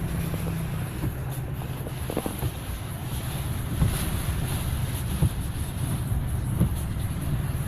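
Inside a moving vehicle on wet, flooded streets: a steady low rumble of engine and tyres under a hiss of water and wind, with scattered small ticks.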